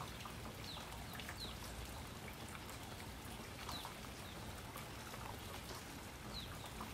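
Faint steady rainfall with scattered raindrop ticks. A bird calls over it, a short falling chirp about six times.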